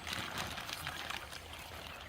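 Running water: a steady rush with small splashes.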